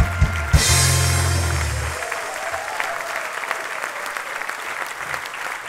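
A live band's song ends on a final chord with a cymbal crash about half a second in, which rings out and dies away by about two seconds. Audience applause follows.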